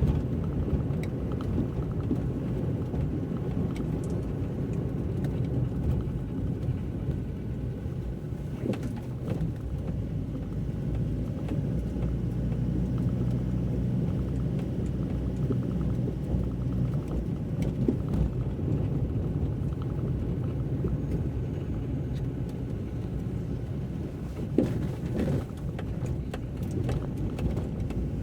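Inside a moving car: a steady low road and engine rumble from tyres on wet tarmac, with a faint engine tone rising out of it midway and a few short knocks, about nine seconds in and near the end.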